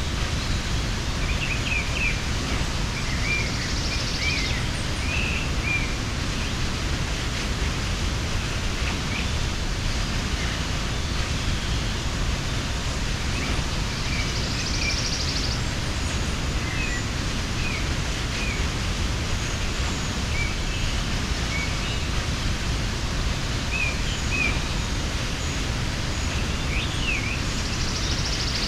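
Waterfall rushing steadily as water falls onto the mountain stream, with small birds chirping intermittently over it. A brief higher buzz comes about every eleven seconds.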